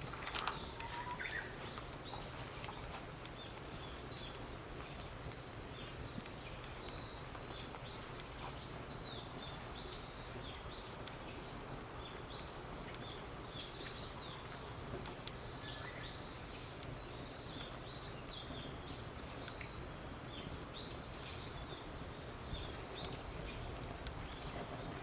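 Quiet outdoor ambience with a steady low background noise and many faint, short bird chirps. A single sharp crack comes about four seconds in, with a few smaller clicks near the start.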